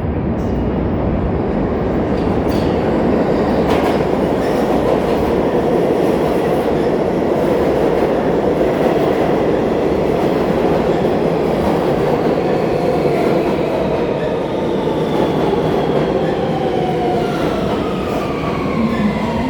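New York City subway train pulling into a station: a loud, steady rumble of wheels on rail. From about two-thirds of the way in, a whine of several tones falls steadily in pitch as the train brakes.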